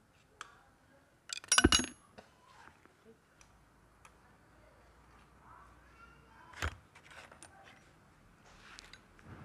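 Metal clinking and a short metallic clatter of hand tools and engine parts being handled during engine reassembly. The loudest rattle comes about a second and a half in, and a single sharp clink comes about two-thirds of the way through, with lighter ticks between.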